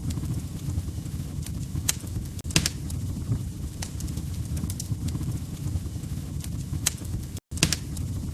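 Wood fire crackling in a fireplace: a steady low rumble of flames with sharp pops and snaps at irregular intervals. The sound drops out for a split second about seven and a half seconds in.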